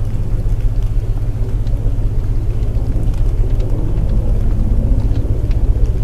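Layered sleep soundscape: a steady low binaural-tone drone under a wash of rain, with faint scattered crackles.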